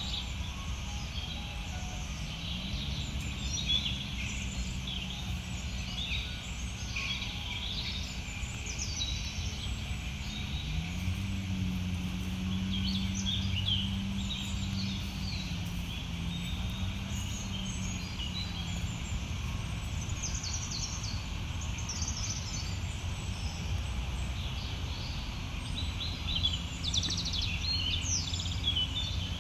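Small birds chirping and calling again and again over a steady low hum, which rises in pitch a few seconds in and again about ten seconds in.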